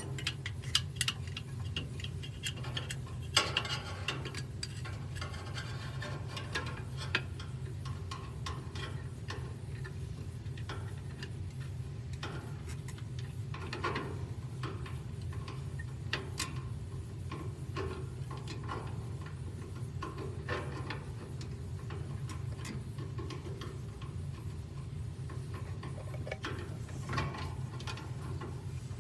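Scattered light clicks, taps and rubbing as a washing machine's clips and panel parts are handled and worked into place by feel, over a steady low hum.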